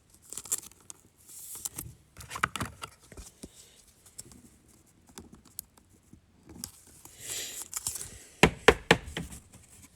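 Trading cards and their packaging being handled on a table: scattered rustles, slides and light taps, then a cluster of sharp knocks near the end.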